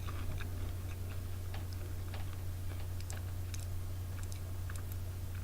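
Chewing crunchy kale chips: scattered faint crackles and small crunches at an uneven pace, over a steady low hum.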